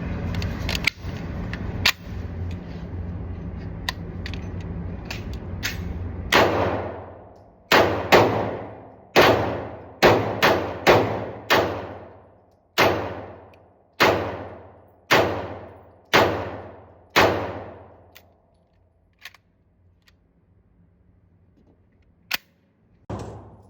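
MAC5k 9mm pistol firing unsuppressed, with only its flash hider fitted. About a dozen single shots, roughly one a second, start about six seconds in; each sharp report trails off. A few light clicks and a thump follow near the end.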